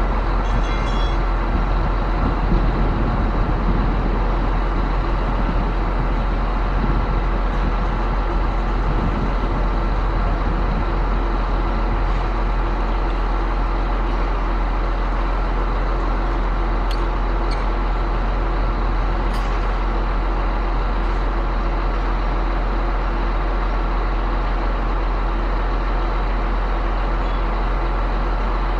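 Concrete pump running steadily: a constant, loud machine drone with a strong low rumble, and a few faint ticks about halfway through.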